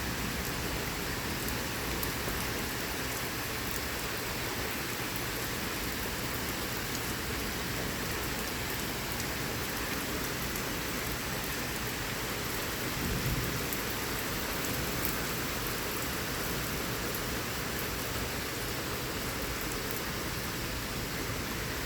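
Steady heavy rain of a severe thunderstorm, with a low rumble of thunder swelling briefly about thirteen seconds in.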